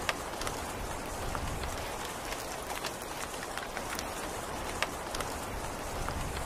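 Steady rain: a dense, even patter with individual drops ticking sharply now and then, two of them louder, near the start and about five seconds in.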